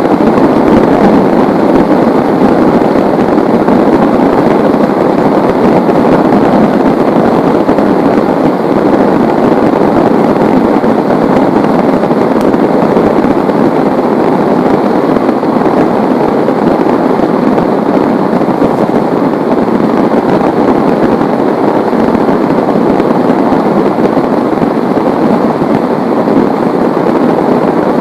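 Heavy rain falling, a steady, even downpour with no break.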